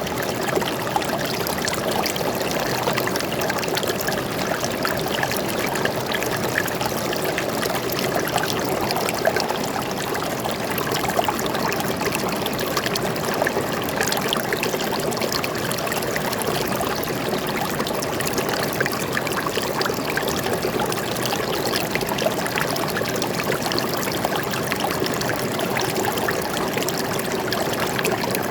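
Forest stream flowing steadily, a continuous rushing and trickling of water with many small splashes.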